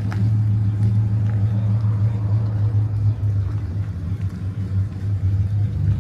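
A car engine idling steadily, a loud, even, low-pitched drone.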